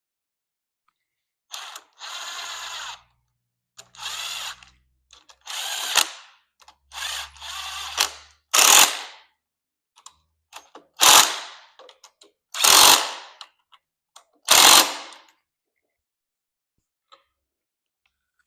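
Cordless power driver with a 6mm hex bit running down the handlebar clamp's Allen bolts in about nine short trigger bursts, snugging them lightly rather than torquing them fully. The last four bursts, from about halfway on, are brief and the loudest.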